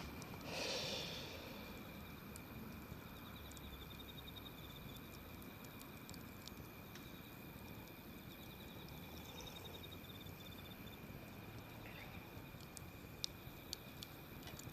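Wood campfire burning with a faint steady hiss, a brief rush of sound about a second in and a few sharp pops near the end.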